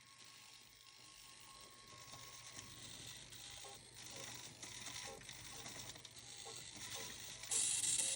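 An animatronic robot's mechanism moving: faint mechanical whirring and clicking over a steady low hum, then a loud hiss starting about seven and a half seconds in.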